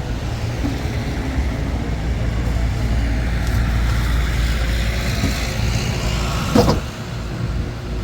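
Motor vehicle engine running with a steady low rumble. A short, loud, sharp sound cuts in about six and a half seconds in.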